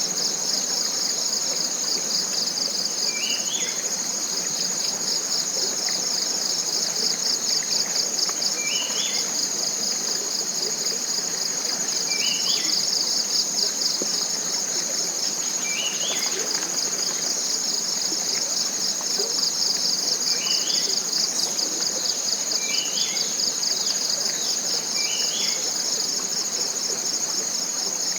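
A steady, high-pitched, rapidly pulsing chorus of forest insects, with a bird repeating a short rising call every few seconds.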